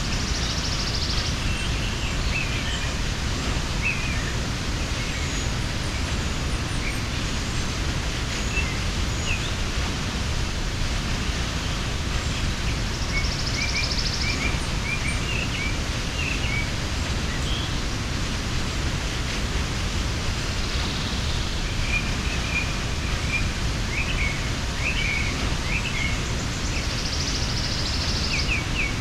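Waterfall rushing steadily, with small birds chirping now and then over it and a few short high buzzy trills.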